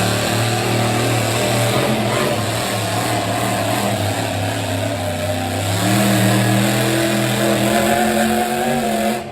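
Engine of a 4wd pulling truck running hard under load, its note stepping up in pitch and getting louder about six seconds in.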